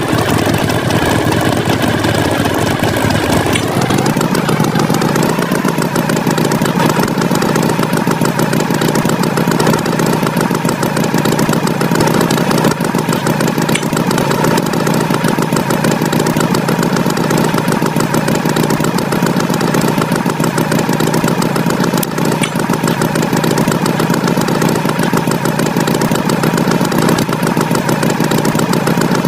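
Tractor engine sound effect running steadily with a fast chugging pulse; its pitch shifts slightly about four seconds in.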